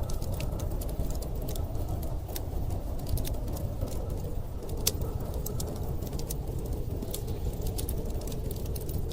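Wood fire crackling, with irregular sharp pops, over a steady low rush of blizzard wind.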